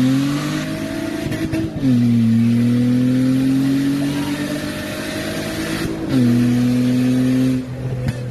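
Car engine accelerating hard, its pitch climbing steadily through the gears, with upshifts about two seconds in and about six seconds in. The engine eases off near the end.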